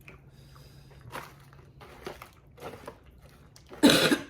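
Crawfish shells crackling and snapping as they are peeled and eaten, in a few soft cracks, then a louder noise lasting about half a second near the end.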